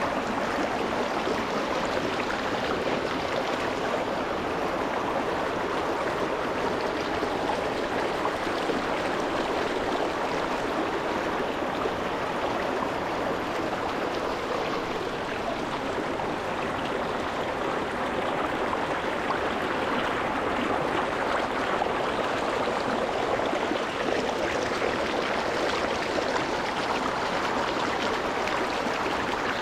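Water of a small rocky mountain stream running and splashing over stones, close to the water, as a steady rushing burble.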